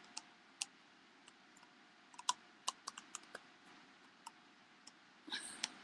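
Scattered faint clicks and taps, about a dozen spread irregularly, with a short rustle just before the end.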